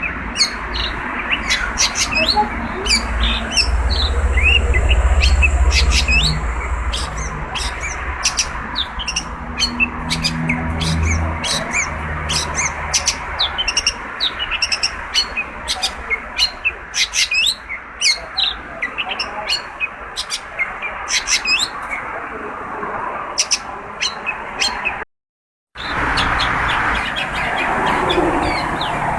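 Long-tailed shrike (cendet) singing in full voice: a fast, varied chatter of short, sharp notes, some rising and some falling, with a low rumble underneath. The sound cuts out completely for about half a second around 25 seconds in.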